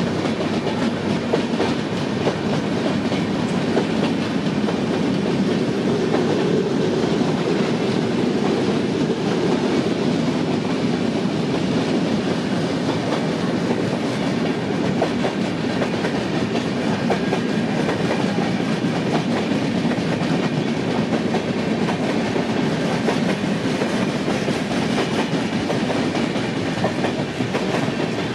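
Express train's passenger coaches rolling past close by on an electrified line: a steady, loud rumble of wheels on rail with clickety-clack over the rail joints.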